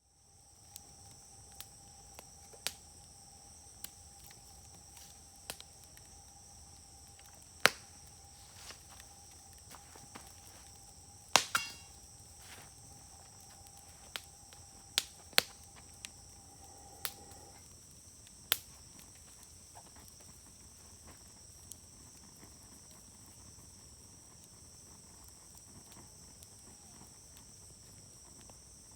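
Wood fire crackling, with sharp pops of bursting wood at irregular intervals, the loudest about eight and eleven seconds in. Insects chirp steadily in the background.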